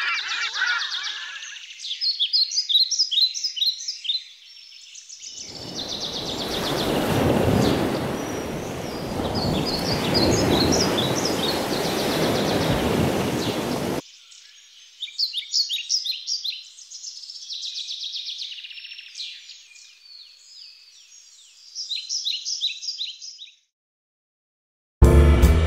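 Small birds chirping in quick repeated runs, with goose-like honking fading out in the first second or two. From about five seconds in to about fourteen, a loud steady rushing noise lies under the birdsong, then stops suddenly and leaves the chirping alone.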